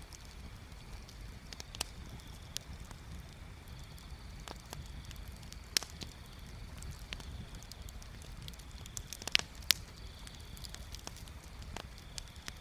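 Wood bonfire crackling, with irregular sharp pops and snaps over a low steady rumble of the flames; the loudest pops come about six seconds in and twice in quick succession near nine and a half seconds.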